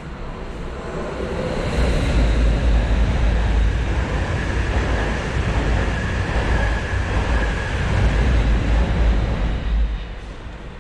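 A train passing on the elevated track overhead: a loud, low rumble with a faint steady whine, building over the first two seconds and dropping off sharply about ten seconds in.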